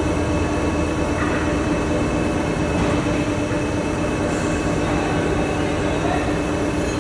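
CNC gantry milling machine running: a steady mechanical hum with several held tones.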